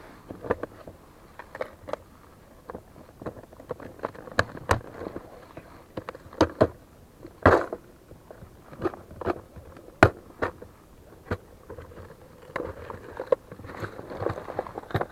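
Irregular sharp knocks and clicks, a dozen or more, spaced unevenly, the loudest about seven and a half and ten seconds in, like objects being handled and bumped.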